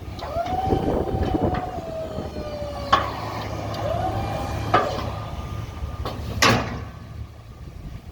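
Snowplow hydraulic pump motor whining in two runs, each rising in pitch as it spins up and then sagging, and each ending in a sharp clunk as the blade stops at the end of its travel. A third, louder clunk comes near the end, over a low steady hum.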